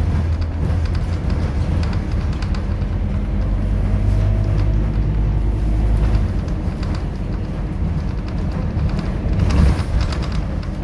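Scania K230UB city bus's diesel engine running under way, a steady low hum with light rattling. The engine note drops back about six seconds in and swells louder briefly near the end.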